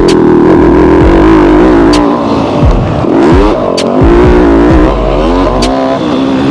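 Yamaha YZ250F four-stroke single-cylinder dirt bike engine at full throttle, its pitch climbing and dropping several times as the rider works the throttle and gears, with a few sharp ticks.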